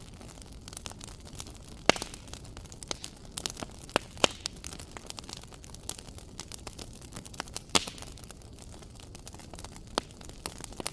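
Wood fire crackling in a fireplace: a steady spatter of sharp snaps and pops over a low hiss of flames, with a few louder pops around two, four and eight seconds in.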